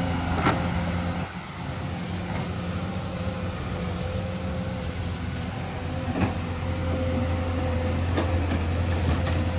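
Hyundai excavator's diesel engine running steadily with a constant whine over it, easing off briefly about a second in and then building again. Three sharp knocks come through, one near the start and two in the second half.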